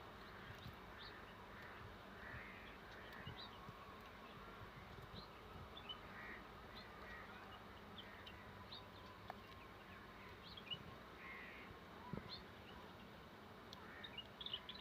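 Faint outdoor ambience: scattered short, high chirps over a faint steady hum, with an insect-like buzz.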